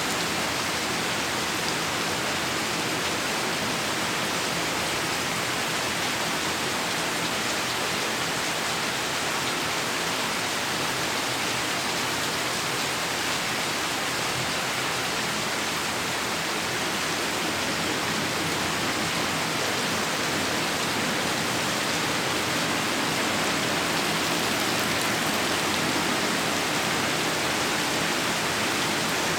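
Steady heavy rain, an even dense hiss of rainfall with no thunder.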